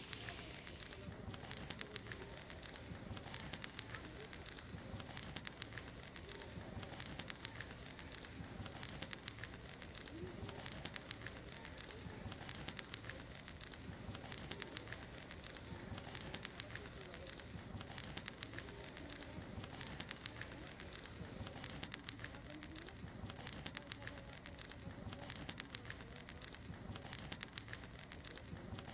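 Bonfire crackling at night: sharp little pops come in small clusters about every two seconds. Under them runs a steady high-pitched insect drone.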